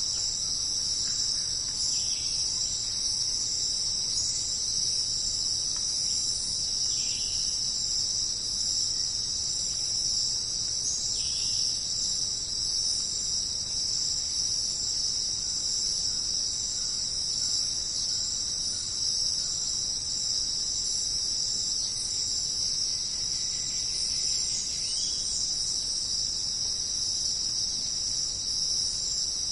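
Dense, steady chorus of jungle insects trilling in high, unbroken bands, with a few brief faint calls standing out now and then.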